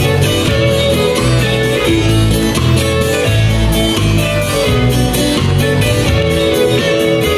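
Rock band playing an instrumental passage between sung verses: guitar and violin over bass and a steady drum beat.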